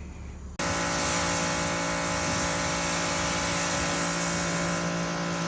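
A vehicle engine running steadily: an even low hum under a broad hiss, cutting in abruptly about half a second in.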